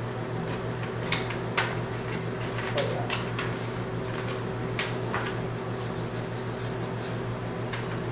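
Paper booklet pages being handled and turned: a few soft rustles and clicks over a steady low electrical hum.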